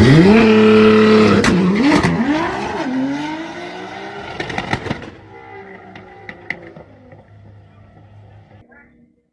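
A motor vehicle's engine revving: its pitch rises, dips twice and climbs again over the first few seconds, then dies away, with a few faint knocks near the end.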